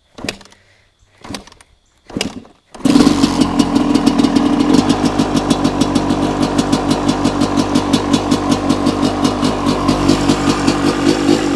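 Cold Suzuki RM250 two-stroke single-cylinder dirt bike engine being kick-started: three short bursts from the kickstarter, then it fires on the third kick about three seconds in and settles into a steady, rhythmic cold idle.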